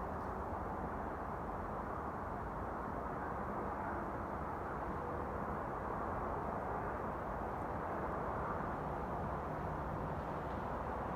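A steady mechanical drone from overhead, a rushing noise with no breaks, heavy in the low and middle range, swelling slightly toward the middle and with faint held hums underneath.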